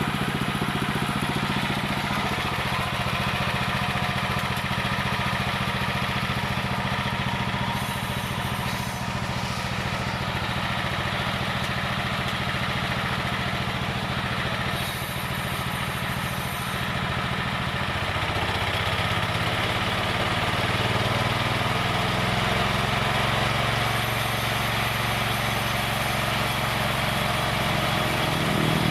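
Motor of a wood-sawing machine running steadily, with a slight shift in its pitch about eighteen seconds in.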